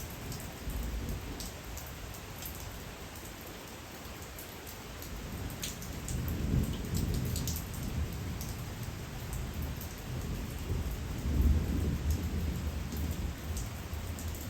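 Steady night rain with scattered single drops ticking, and a low rolling rumble, likely distant thunder, that builds from about halfway through and is loudest a few seconds before the end.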